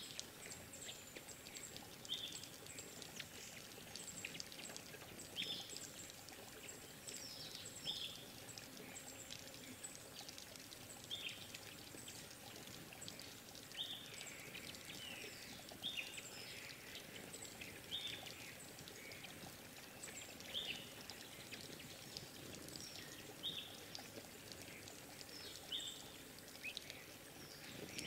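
Small forest birds calling: short, high, sharp notes repeated every one to three seconds, over a faint steady trickle of water.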